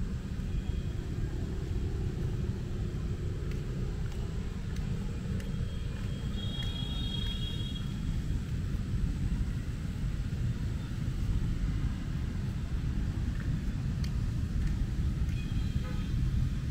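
Steady rain falling on an umbrella overhead, with a constant deep rumble under it and faint drops ticking.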